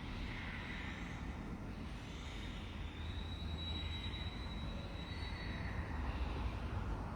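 Steady low rumbling background noise with a faint hiss above it and no distinct events.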